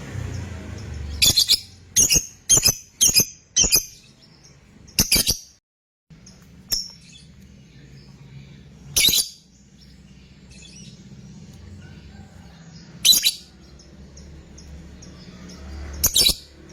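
'Fighter' lovebird giving short, shrill calls: a quick run of about six in the first four seconds, then single calls every few seconds, over a low background hum.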